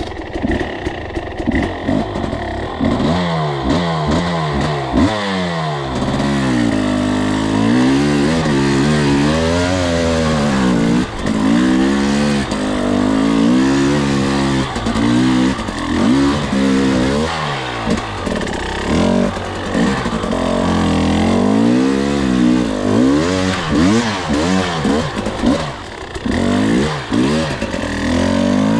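Two-stroke enduro dirt bike engine under way, its revs rising and falling over and over, each swell lasting a second or two.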